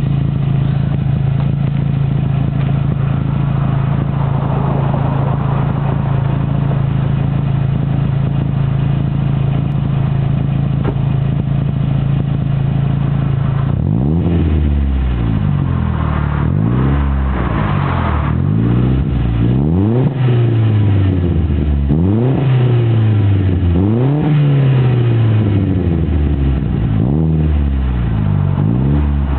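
2001 Audi A4 1.8T quattro's turbocharged inline four-cylinder running through a custom 2.5-inch cat-back exhaust with the resonator removed. It idles steadily for roughly the first half, then is revved again and again in quick blips, each pitch rising sharply and falling back.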